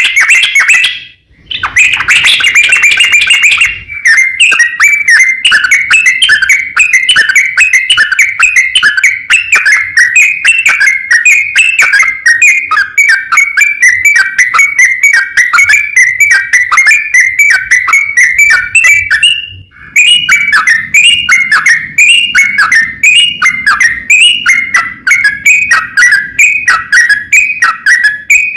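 Yellow-vented bulbul (trucukan) singing a long, rapid run of chattering notes, the kind of extended song used as a lure to make other bulbuls answer. It is nearly continuous, pausing briefly about a second in and again about two-thirds of the way through.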